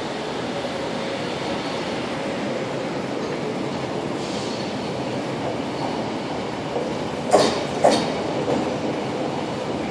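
Electric train running slowly into a station platform: a steady rumble of wheels on track, with two sharp clacks a little over half a second apart near the end as the wheels cross rail joints or points.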